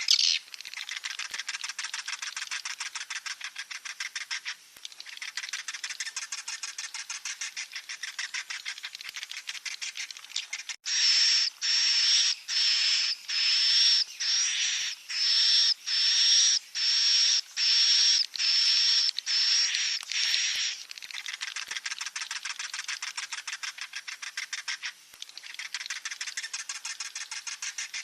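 Swiftlet chicks calling: a fast, buzzing chatter in stretches of a few seconds. In the middle, for about ten seconds, a louder run of high chirps comes roughly once a second.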